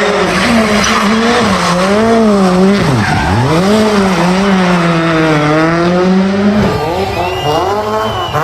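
Rally car engine revving hard, its pitch rising and falling through the revs, with a sharp drop about three seconds in before it climbs again. A noisy hiss runs underneath.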